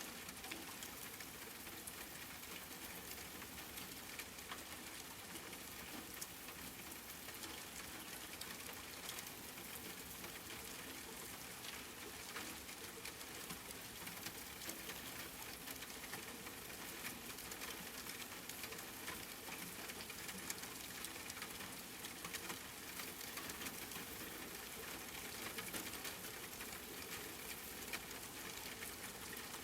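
Steady rain falling on a surface, with a dense patter of small drop ticks.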